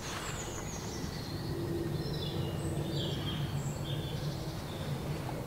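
Wild birds singing: scattered short, high chirps and warbles over a low, steady hum.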